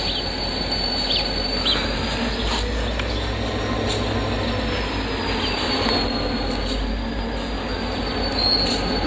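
Southern Ontario Railway train approaching on the spur: a thin, high wheel squeal that drifts up in pitch and back down, over a low rumble that swells through the middle.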